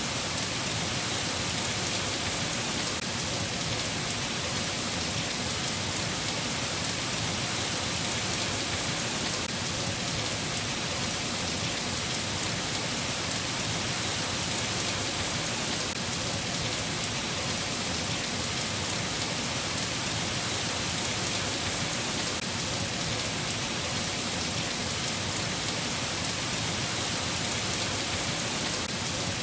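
Steady, even rain falling, a constant dense hiss of drops on surfaces.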